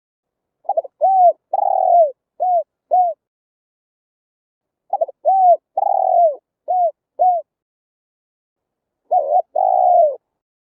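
Spotted dove cooing: three phrases, each a few short hooting coos around one longer coo that falls in pitch, with about two seconds of silence between phrases.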